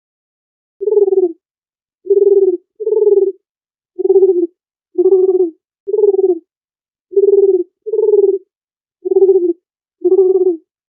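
Dove cooing: ten short, low coos, about one a second, each separated by dead silence.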